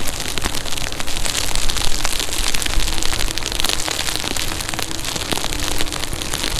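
Heavy rain pattering on the rider's gear and camera, with many sharp drop hits, while riding an Inmotion V14 electric unicycle over a wet trail. A faint steady hum from the unicycle's hub motor comes and goes.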